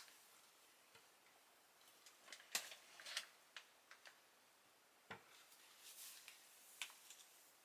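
Faint, scattered light clicks and taps, about half a dozen over several seconds, in near silence.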